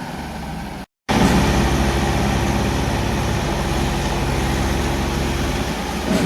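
Tractor diesel engine running steadily. It cuts out completely for a moment about a second in, then comes back louder.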